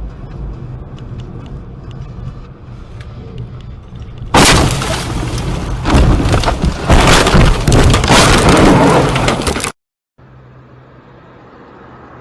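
Vehicle road noise rumbling, then about four seconds in a sudden, very loud crash of a road collision that goes on for several seconds and cuts off abruptly.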